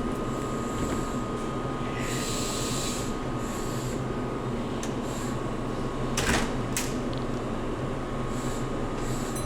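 Steady hum of a commuter train standing at an underground platform, with a thin steady tone over it, short hisses now and then, and two sharp clicks about six seconds in.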